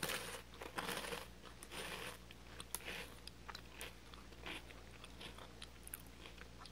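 Crisp heart-shaped Tohato cocoa puffs being bitten and chewed: several loud crunches in the first two seconds, a few more spaced ones, then fainter chewing crackles.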